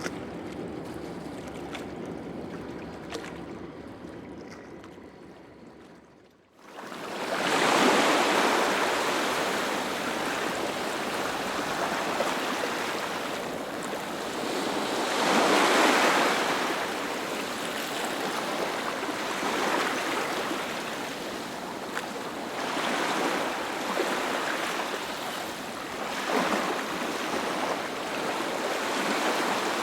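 Sea waves breaking on the shore, a loud wash of surf that swells and falls back every few seconds. For the first six seconds it is a quieter, different stretch of sea sound, cut off abruptly before the surf comes in.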